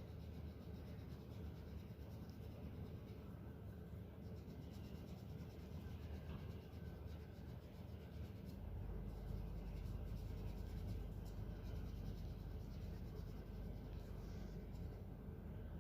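Crayon scratching on paper in many quick strokes, colouring in an area; faint.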